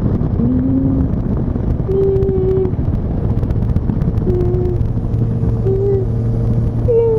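Motorcycle riding along at road speed, its engine running steadily under a constant rush of road and wind noise, heard from the pillion passenger's helmet camera. A few short, steady held tones sound over it.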